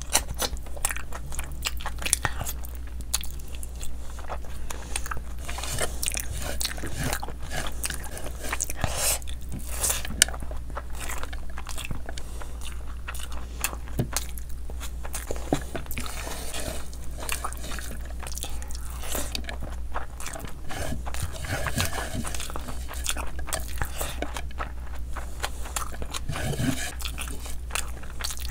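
Mouth sounds of a person eating rice and curry by hand: wet chewing and lip smacking with crisp crunching bites of raw onion, over a steady low hum.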